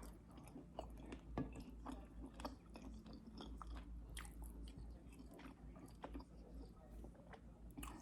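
A person chewing food close to the microphone, with irregular wet smacks and small crunches, over a low steady hum.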